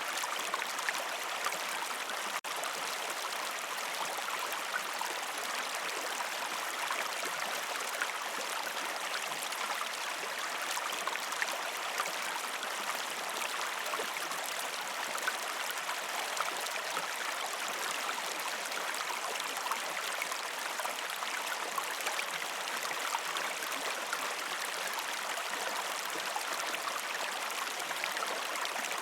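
A river stream flowing steadily over rocks: a continuous rushing hiss with small splashes and trickles, broken by a momentary dropout about two seconds in.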